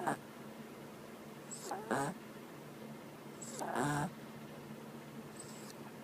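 Sleeping dog snoring loudly: three snores about two seconds apart, the one near four seconds in the longest and loudest.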